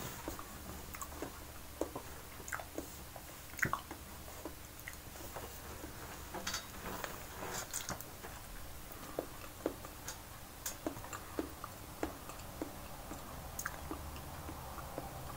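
A person chewing and biting a peeled banana close to the microphone: wet mouth clicks and lip smacks come every half second to a second, over a faint steady low hum.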